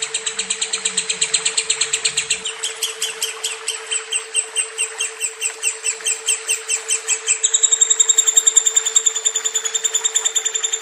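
Lovebird chattering in one long unbroken trill of rapid high chirps, about eight a second, that steps in pitch twice. A steady low tone runs underneath.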